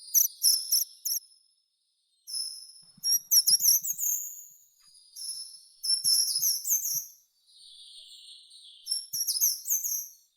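Songbird singing in short, high-pitched phrases separated by pauses, with a softer buzzy trill about three quarters of the way through.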